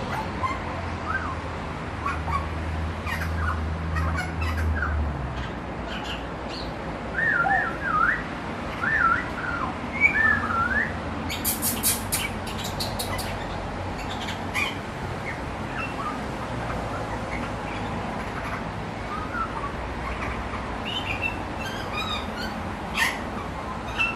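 Grey butcherbird calling: scattered short chirps and a run of whistled notes sliding up and down in pitch about a third of the way in. The whistles are followed by a short burst of rapid clicks.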